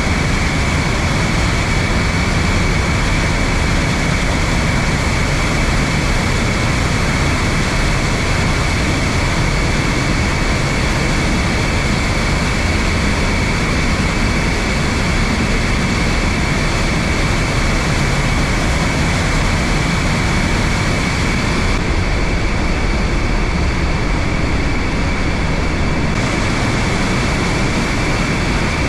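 Steady loud roar of the Trümmelbach glacier waterfall, water crashing and rushing through the rock gorge.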